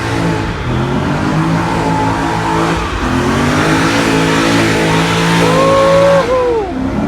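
Car engine revving over other engines running: the revs rise and fall, then one is held high for about a second near the end before dropping off.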